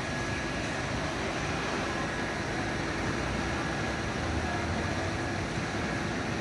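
Steady vehicle engine and traffic noise, even and unbroken, with a faint steady whine.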